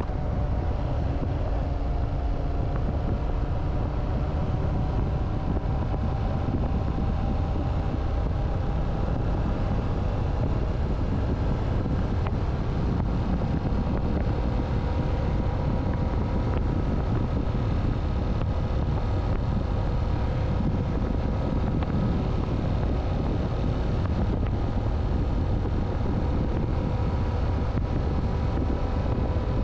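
Motorcycle engine running at a steady cruise, its pitch drifting gently up and down, under a heavy low rush of wind over the microphone.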